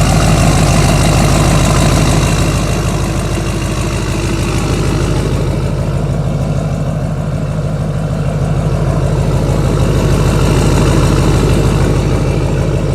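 2009 Duramax LMM 6.6-litre V8 turbo-diesel idling steadily after a cold start. It goes a little quieter and duller for a few seconds in the middle, then comes back up.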